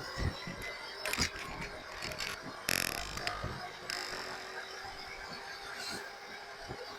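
Electric bike riding along: a faint steady whine with scattered clicks and rattles from the bike, and a brief louder rustle about three seconds in.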